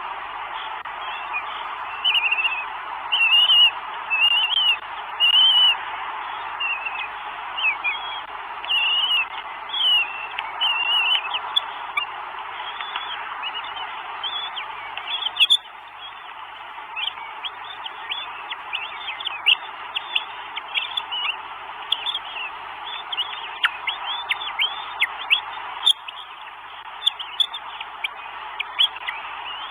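A bird calling close to the microphone over a steady hiss: loud, arched call notes about once a second, then many short, downward-sliding notes in quick runs over the second half.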